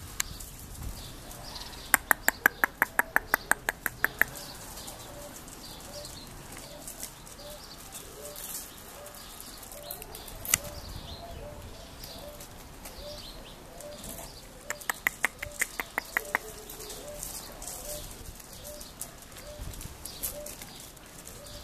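Birds calling, a short soft call repeated over and over, with two runs of sharp, rapid clicks, about six a second, a couple of seconds in and again about fifteen seconds in.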